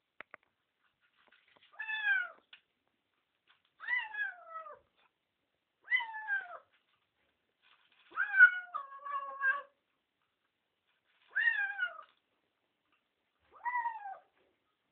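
Domestic cat meowing six times, about every two seconds, each meow falling in pitch; the fourth call, a little past the middle, is longer and drawn out in two parts.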